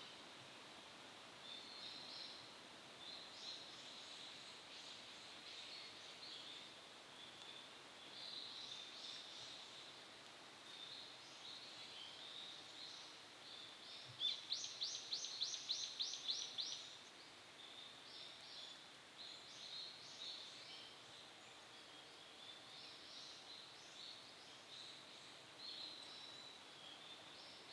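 Several wild birds calling and twittering faintly in woodland. About halfway through comes a loud, rapid run of about a dozen sharp notes, roughly four a second, lasting some three seconds.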